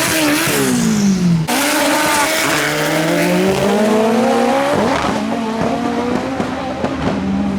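Drag race car engine at high revs, its pitch dropping for about a second and a half, then, after an abrupt change, climbing steadily for a couple of seconds before levelling off.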